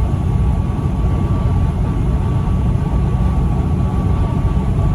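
Semi truck's engine and road noise heard from inside the cab while driving: a steady low drone with a faint, thin, steady whine above it.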